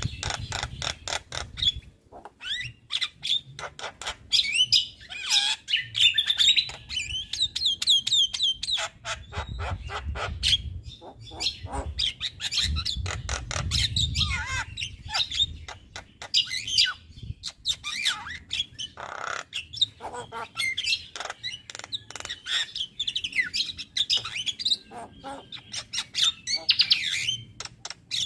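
Male Javan myna (jalak kebo) singing non-stop: a fast stream of sharp clicks and squawks mixed with whistled notes that glide up and down.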